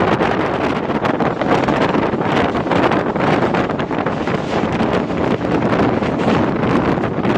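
Wind rushing over the microphone and the steady running noise of a MEMU electric passenger train travelling at speed.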